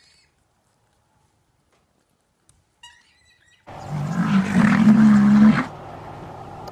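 A large animal's loud call lasting about two seconds, coming in after a few faint chirps and followed by a quieter steady background.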